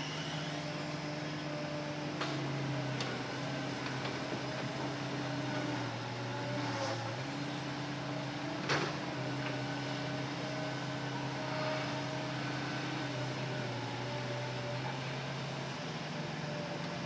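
Hitachi Zaxis excavator's diesel engine running steadily under hydraulic work, its note stepping up and down a few times, with a few light clicks and one sharp knock about halfway through.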